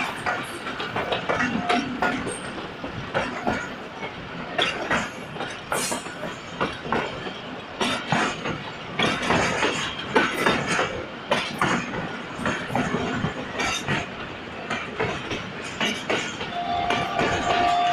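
Moving passenger train heard from the coach side: wheels clattering over the rails with a dense run of uneven clicks and knocks, over a steady rush of air. A steady horn tone sounds for about two seconds near the end.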